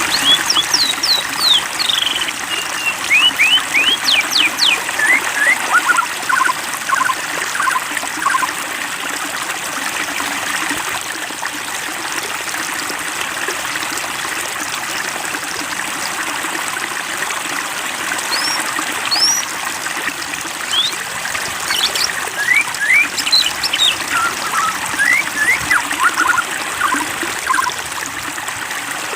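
Water trickling and splashing steadily, like a small stream or fountain. Birds chirp over it in two bouts of quick, sweeping notes, one at the start and another in the second half.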